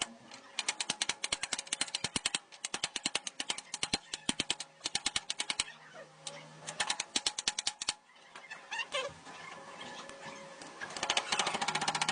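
Pneumatic air tool rattling in several short bursts of rapid clicks with pauses between them, then a longer, denser run near the end.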